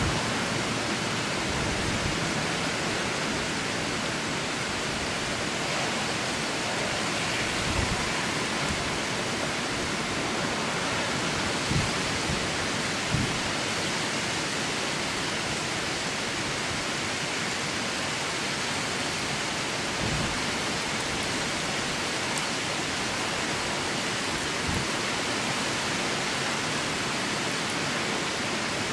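Steady hiss of heavy storm rain, with a few brief low thumps scattered through it.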